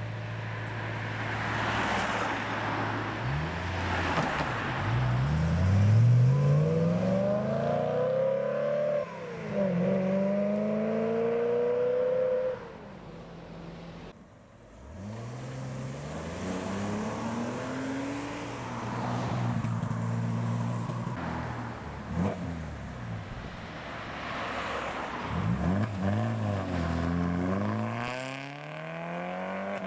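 Several BMW cars pulling away and driving past one after another. The engines rev up through the gears, rising in pitch and then dropping at each shift. A steady idle at first gives way to the revving, which is loudest about six seconds in, eases off briefly around the middle and picks up again near the end.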